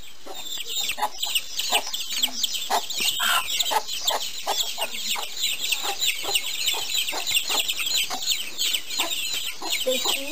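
Birds calling continuously, a dense run of overlapping short, falling chirps, with lower clucking calls among them.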